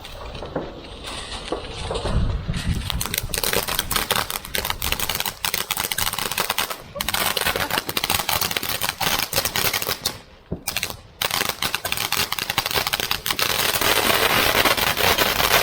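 A firework crackling in a long run of rapid sharp bangs, beginning about two and a half seconds in, pausing briefly twice and then going on.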